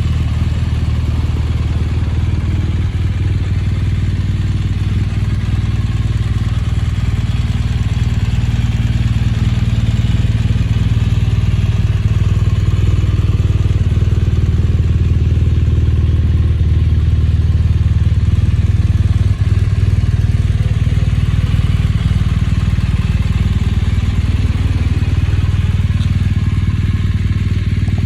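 BMW R1200GS boxer-twin engine running steadily through an Akrapovic exhaust, a continuous low exhaust note.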